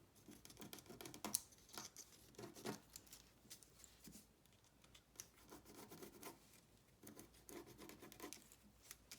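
Faint scratching of a drawing tool tracing an outline around a paper bird template on collaged paper, in short intermittent strokes with a pause in the middle.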